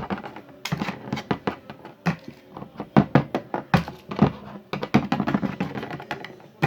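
Many quick, irregular taps and knocks of small hard plastic toys being handled and set down on a hard surface.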